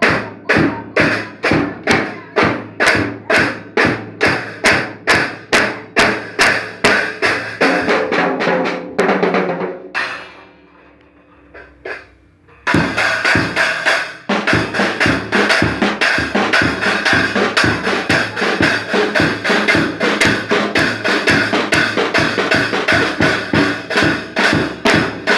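A toddler hitting a drum kit, the strikes coming about three a second, then a lull of a few seconds about ten seconds in, followed by faster, denser hitting.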